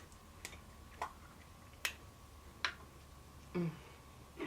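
A few sharp, separate clicks and taps, about one a second, from handling a plastic bottle of orange juice before pouring it, with a softer, duller knock near the end.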